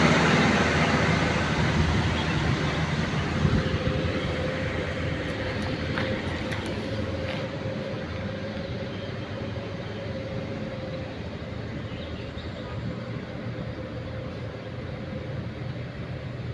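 Heavy truck's diesel engine running as it goes past and fades away, with a steady whine for several seconds in the middle.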